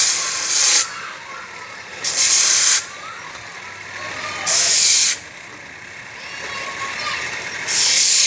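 Rasping strokes of metal being ground on a whetstone, four long hissing strokes about two seconds apart, finishing off the freshly cut end of a brake cable.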